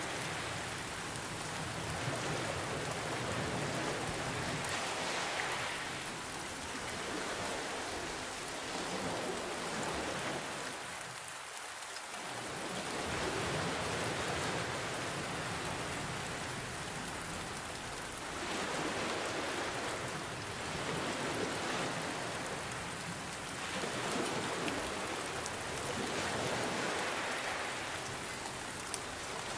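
Steady rain ambience mixed with ocean waves, a continuous hiss that swells and eases every few seconds as waves wash in and draw back.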